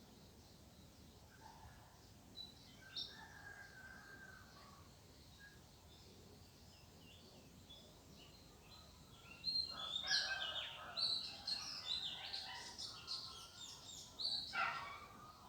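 Birds calling in the open: a few faint, scattered chirps, then from about ten seconds in a loud run of rapid, overlapping chirping and chattering that lasts about five seconds and stops shortly before the end.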